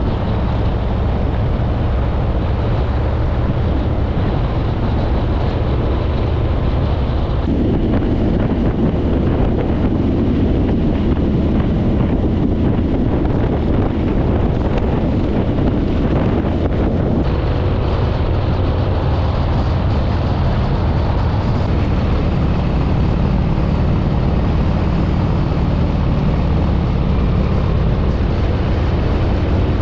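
Harley-Davidson V-twin touring motorcycle running at road speed, its engine drone mixed with wind rushing over the microphone. The engine sound grows rougher and louder for about ten seconds in the middle.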